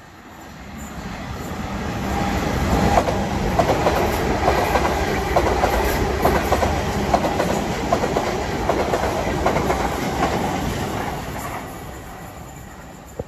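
A train passing by on the railway line: its noise builds over a few seconds, stays loud with rapid clattering of wheels over the rails, then fades away near the end.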